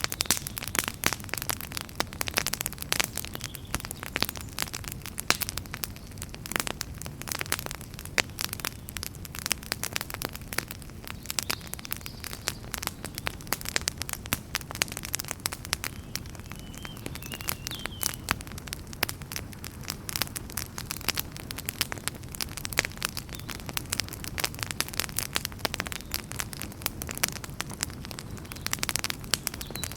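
Wood fire in a fireplace crackling and popping steadily, with dense irregular snaps over a low rumble of flame and a brief faint squeal a little past the middle.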